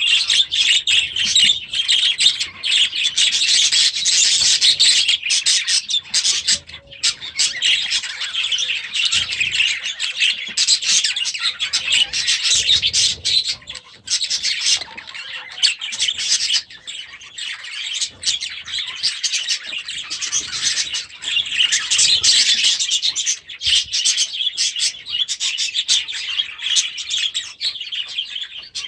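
A flock of budgerigars chattering continuously: a dense, unbroken mix of warbling, chirps and squawks.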